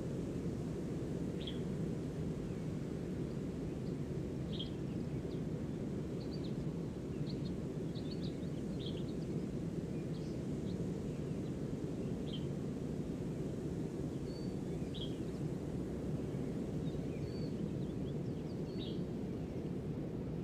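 Nature ambience: a steady low rushing background with short, high bird chirps scattered throughout.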